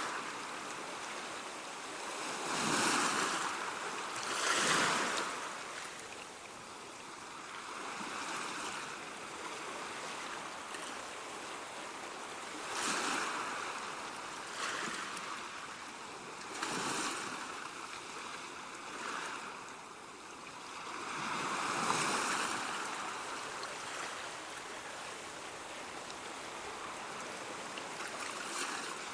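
Ocean waves washing in and breaking, a steady rush of surf that swells with each wave every few seconds.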